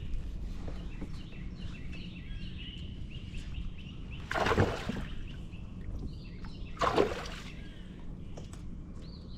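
Water splashing twice, about two and a half seconds apart, against a steady outdoor background with small birds chirping.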